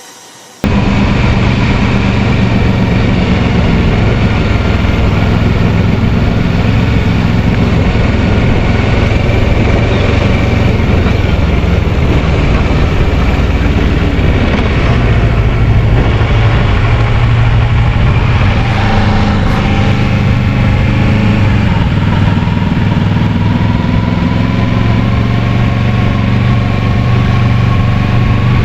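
Kawasaki Versys 650's parallel-twin engine running while the motorcycle is ridden, over a steady rush of wind noise; the engine pitch rises about two-thirds of the way through as it speeds up.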